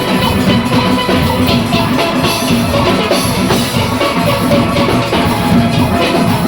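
Steel orchestra playing a full steelpan arrangement, many pans ringing together over a steady drum-kit and percussion rhythm.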